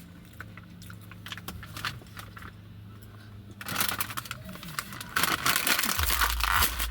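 Plastic snack bag crinkling and rustling, with crisp crunchy clicks; sparse at first, then loud, dense crinkling from a little past halfway. A low rumble comes in near the end.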